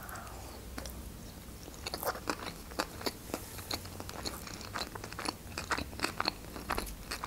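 A person chewing a large mouthful of salmon-topped sushi roll close to the microphone, with irregular small mouth clicks.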